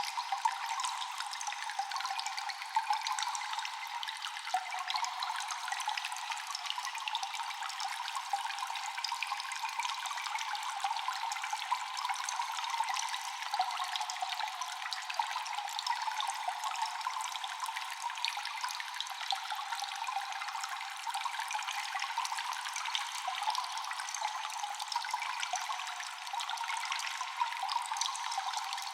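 Cave ambience of dripping, trickling water, echoing: many small drips over a steady rush of running water.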